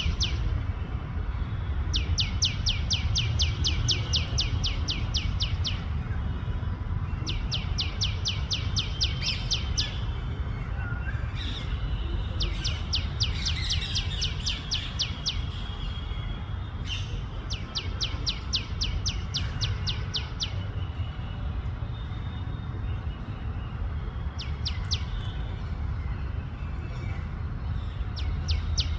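Tailorbird calling loudly in repeated bouts of rapid, sharp downward-sweeping chirps, about five a second, each bout lasting two to four seconds with pauses between, over a steady low background rumble.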